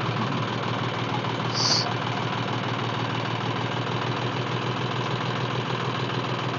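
Tractor diesel engine idling steadily, with a short hiss about a second and a half in.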